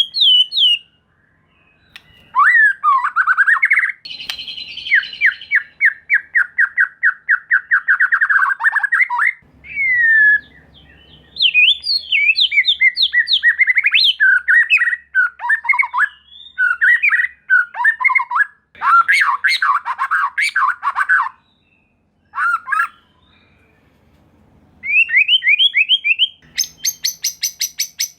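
White-rumped shama (murai batu) singing a long, varied song of whistled phrases. Partway in comes a long run of rapid repeated notes, and near the end a fast, high rattle of notes. This is the excited, fighting-style song used as a lure to make other shamas answer.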